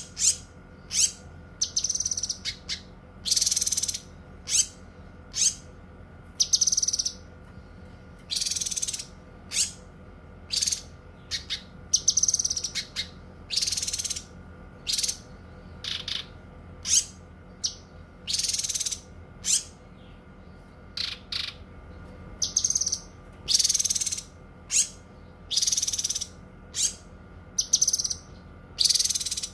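A cucak kinoi songbird singing a long string of short, high-pitched notes and phrases, about one a second, over a faint steady hum.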